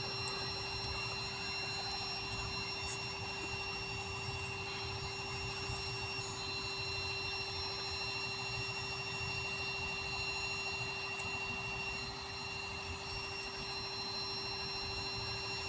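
A distant engine running steadily: a low, even rumble with a few faint constant high whines over it.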